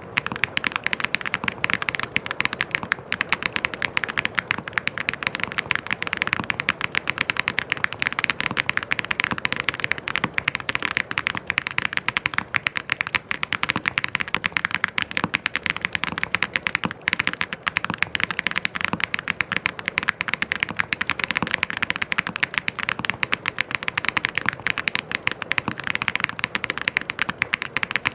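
Fast, continuous typing on a mechanical keyboard: a dense, unbroken stream of key clicks.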